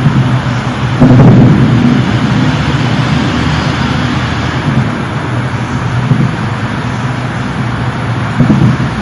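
A sudden loud low boom about a second in, over a constant noisy rumble, with a smaller low thump near the end.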